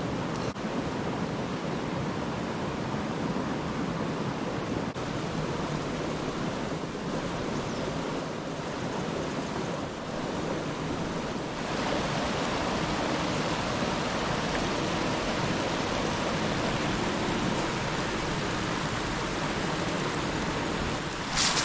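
Steady outdoor rushing noise, like running water or wind. It turns abruptly a little brighter about twelve seconds in, and a few sharp clicks come at the very end.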